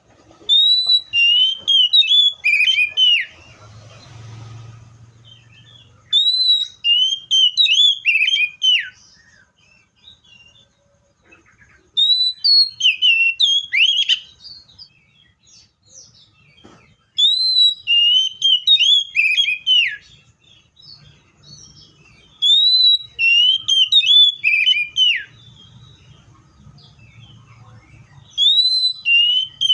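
Seychelles magpie-robin singing loud, clear whistled phrases, several notes slurring downward. Each phrase lasts two to three seconds and recurs about every five to six seconds, with a new one starting near the end.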